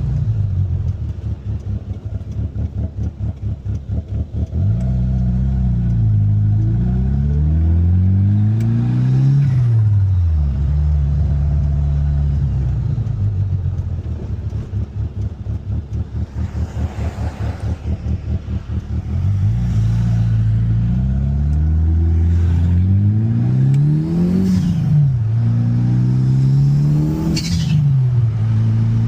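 Turbocharged 4G63 inline-four of a 1995 Mitsubishi Eclipse GSX pulling through the gears from inside the car. The engine pitch climbs, then drops sharply at each quick shift, with a lower, steadier stretch between the two runs and a short hiss at a shift near the end.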